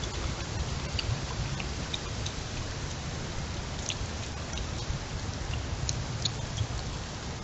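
Heavy rain falling steadily in a windstorm, with a constant low rumble under it and scattered sharp drop ticks.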